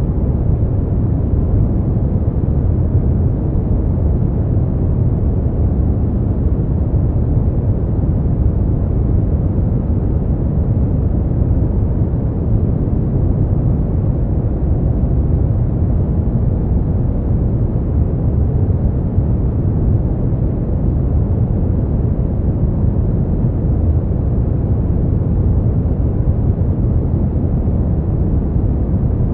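Steady brown noise: an even, deep rumbling hiss, weighted to the low end, with no changes.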